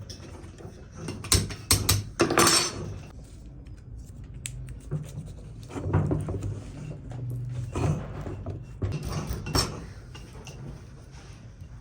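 Metal parts and tools clinking and clattering as they are handled. There is a cluster of sharp knocks in the first few seconds, and more near the middle and toward the end.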